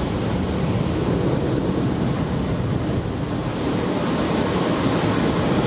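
Boeing 737-800's CFM56-7B jet engines at takeoff power: a steady, dense rumble with a faint high whine on top.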